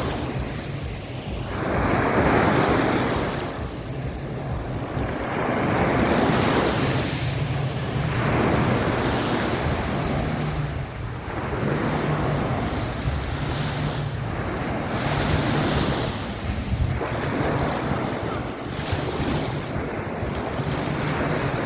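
Small waves of the Sea of Azov washing onto a beach, the surf swelling and fading every few seconds, with wind buffeting the microphone underneath.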